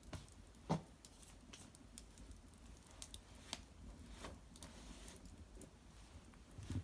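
Cedar wood fire crackling in an irori hearth: scattered, irregular sharp pops and snaps, with a slightly stronger one about three quarters of a second in.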